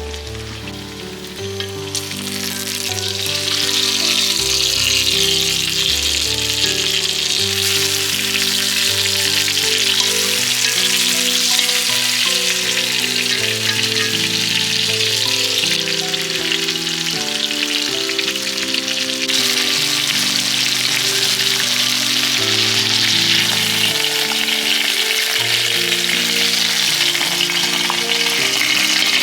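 Food sizzling loudly in a hot pan or on a hot plate, the sizzle building up over the first few seconds and then holding steady. Background music with held notes plays underneath.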